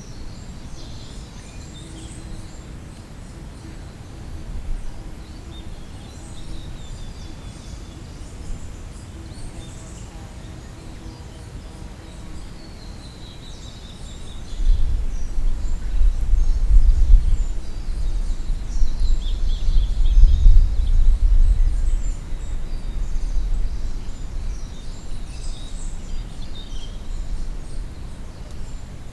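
Wild birds singing and calling in spring woodland, short chirps and trills throughout. From about halfway through, a low gusting rumble rises for about ten seconds and is the loudest sound, then eases.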